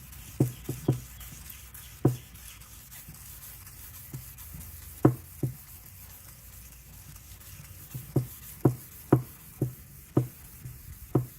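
Irregular light knocks and taps, about fifteen of them, from hand-sanding a plastic headlight lens with 1000-grit sandpaper, moving side to side.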